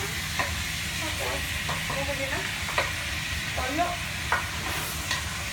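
Pork, onion and garlic frying in a pot, sizzling steadily while a wooden spatula stirs them, with short scrapes and knocks of the spatula against the pot every so often.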